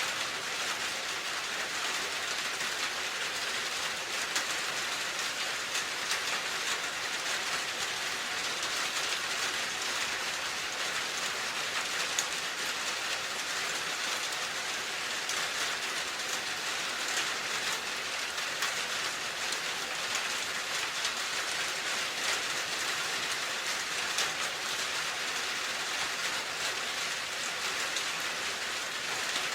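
Steady rain falling: an even hiss with a fine, dense patter of drops on a surface.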